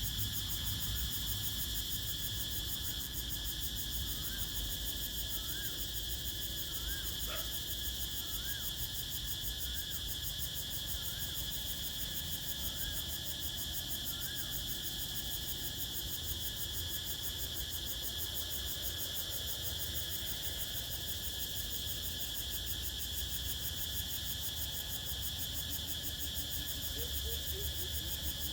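Evening forest chorus of crickets and other insects: a continuous steady high trill. In the first half a bird gives about ten short calls, roughly one a second. A low wind rumble runs underneath.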